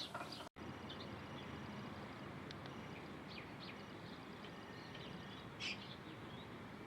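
Birds chirping sporadically over a steady background hiss, with one louder chirp late on. The sound cuts out completely for an instant about half a second in.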